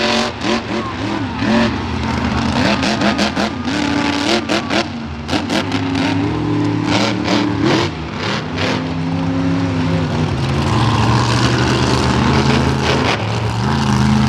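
Monster truck engines revving, their pitch rising and falling, with a run of sharp bangs in the middle.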